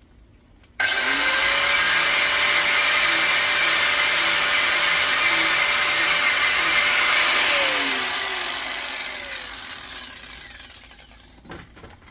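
Angle grinder starting up and grinding into a small metal part clamped in a vice, a loud steady whine over hissing grinding noise. It is a scratch test to see whether the part is copper or aluminium. About two thirds of the way through it is switched off, and the whine falls away as the disc spins down.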